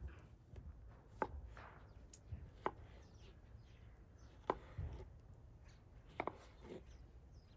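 A knife chopping food on a cutting board: four sharp chops spaced about a second and a half apart, with a few lighter taps between.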